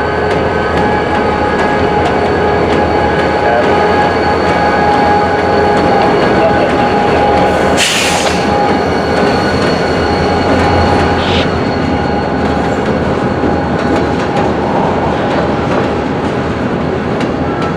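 Freight cars rolling slowly through a rail yard, their steel wheels squealing in several steady high tones. A short hiss about eight seconds in.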